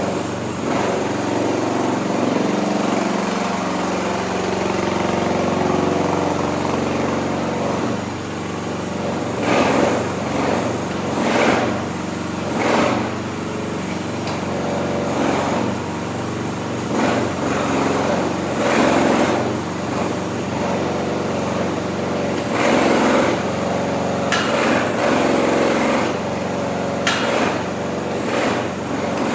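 New Future FT08 mini excavator's small engine running steadily, with repeated short surges of louder noise from about nine seconds in.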